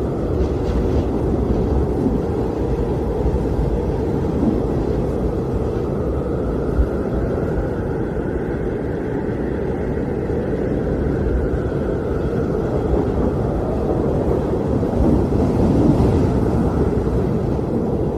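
Blizzard wind blowing steadily, a deep rushing noise that swells slightly near the end.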